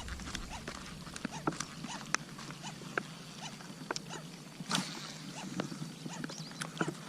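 Raindrops falling on water and on the kayak: scattered irregular ticks and small plinking drops over a faint steady hiss of rain.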